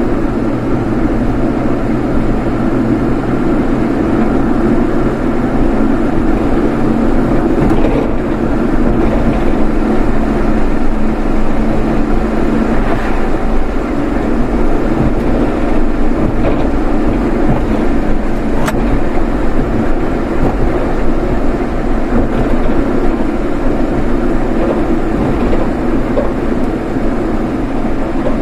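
A car driving at a steady pace, with constant engine and road noise.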